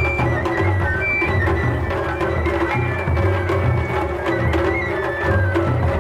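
Japanese festival music (matsuri-bayashi): a high bamboo flute melody of held, stepping notes over a steady rhythmic beat of taiko drums, with sharp percussion strokes.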